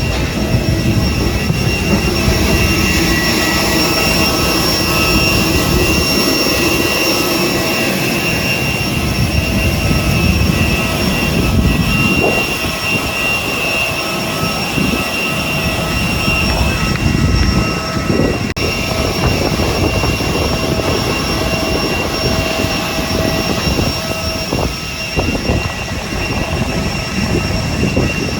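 Jet airliner running at close range: a loud steady rush of noise with several thin high whining tones held over it and an uneven low rumble underneath.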